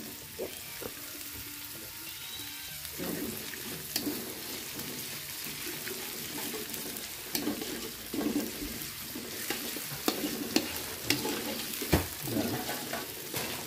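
Chopped shallots, garlic and dried chillies sizzling in hot oil in a metal wok, with a steady hiss. A metal spatula scrapes and clicks against the wok now and then as they are stirred.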